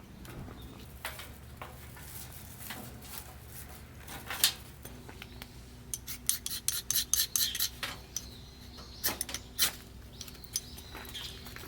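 Metal camp cookware and utensils clinking and scraping: scattered knocks, then a quick run of clicks a little past the middle.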